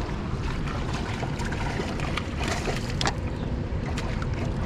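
Steady rushing of water pouring over a spillway, with scattered light clicks over it.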